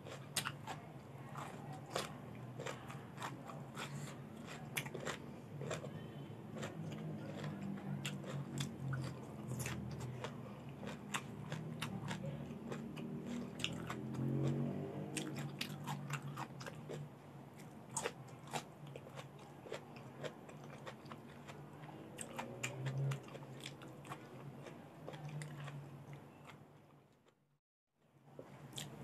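Close-miked eating: bites and chewing of bamboo shoots and raw vegetables dipped in shrimp-paste chilli dip, with many sharp crunchy clicks. The sound cuts out briefly near the end.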